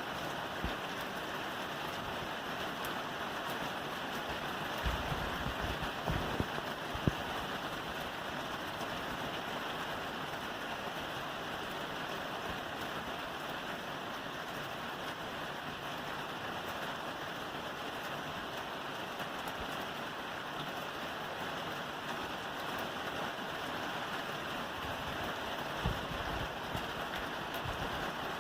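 Steady rain falling on a roof, an even hiss of drops, with a few louder low knocks about a third of the way in and again near the end.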